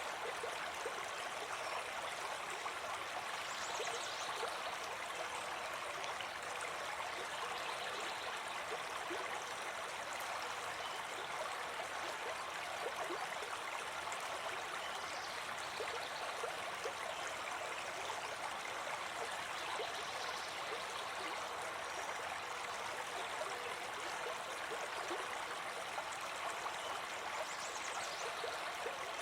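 A brook babbling and gurgling steadily over stones.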